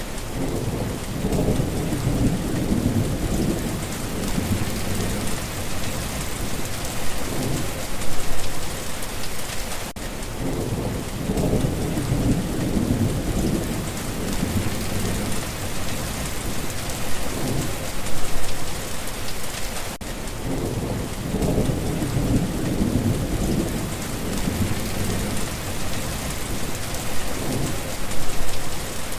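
Steady heavy rain hissing, with rolling thunder that swells and fades again several times, about every ten seconds.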